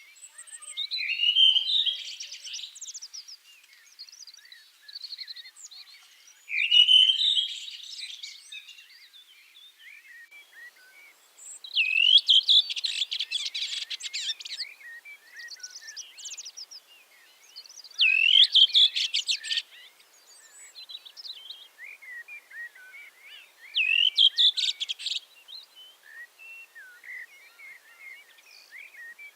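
A songbird singing a repeated phrase about every six seconds. Each phrase is a quick sweeping note that runs into a fast, rattling trill, and fainter chirps from other birds fill the gaps.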